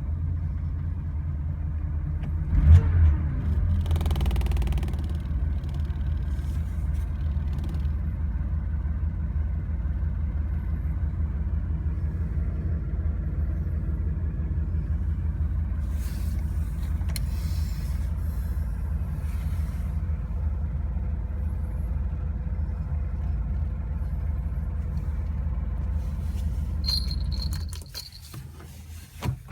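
Air-cooled flat-six of a 1970 Porsche 911T running steadily at idle, with a brief rev about three seconds in, then switched off near the end. Its cylinders have been replaced with aluminium ones, likely 911S pistons and cylinders, which make it rev up freely like an S.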